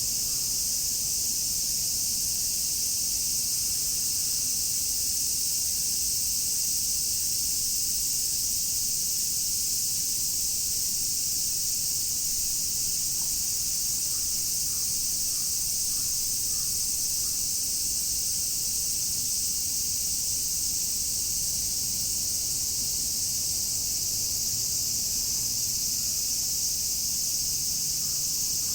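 Dense chorus of many cicadas, a steady high-pitched shrill that goes on without a break.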